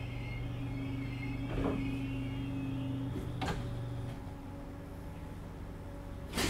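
Interior of a Class 507 electric multiple unit near the cab as it draws to a stand at a station: a steady low hum and a faint wavering high squeal die away about three to four seconds in. A couple of light clicks follow, then a loud clunk at the very end.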